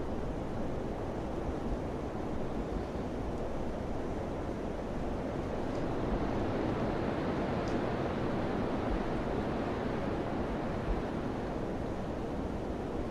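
Summer wind blowing in a steady rushing wash, swelling a little in the middle.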